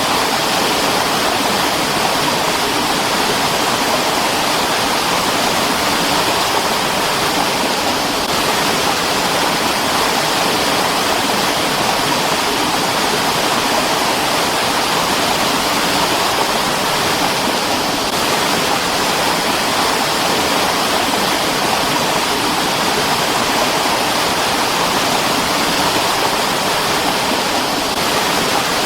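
Mountain stream water rushing steadily, a constant even sound with no breaks.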